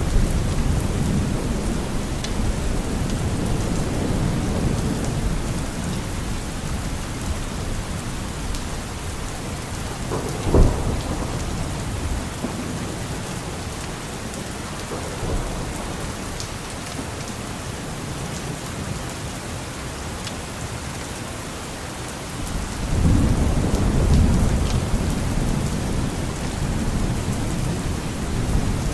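Steady rain with deep rolls of thunder that ease off over the first ten seconds and swell again about two-thirds of the way through, and one sharp crack about ten seconds in.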